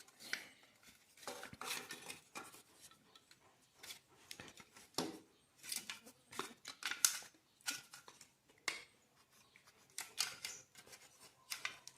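Irregular small clicks, taps and scrapes of plastic and metal as a refrigerator's fan motor is taken apart, a screwed-on part being unscrewed and lifted out.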